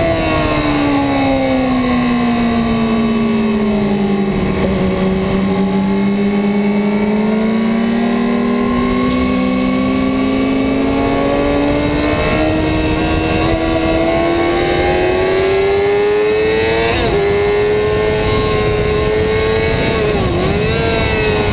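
2008 Yamaha R6's 600 cc inline-four engine at track speed, its pitch falling for the first few seconds as the bike slows, then climbing slowly and steadily under throttle for a long stretch, with a brief dip near the end. A constant rush of wind noise runs underneath.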